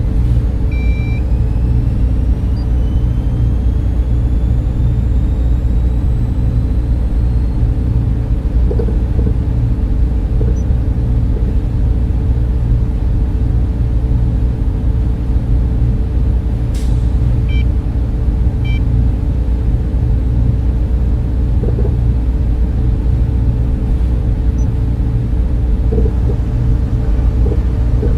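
Server room cooling fans running: a steady, even low hum and rush of air with a constant tone riding on top.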